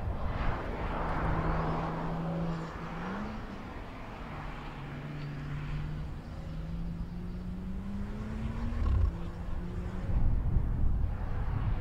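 BMW 4 Series Gran Coupe driving a winding road: the engine note rises quickly about three seconds in, climbs again more slowly until about nine seconds in, then falls away as the car lifts off or shifts, over a haze of tyre and wind noise.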